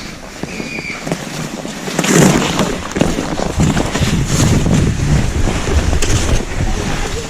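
Skis swishing and crunching over snow in irregular strokes, with wind buffeting the microphone.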